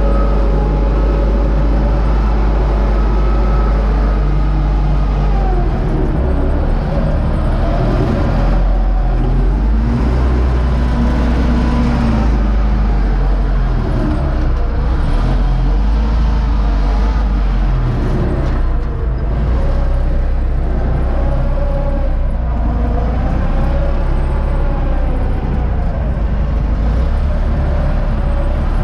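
Universal 650 tractor's four-cylinder diesel engine running steadily while pulling a SUP-21 wheat seed drill.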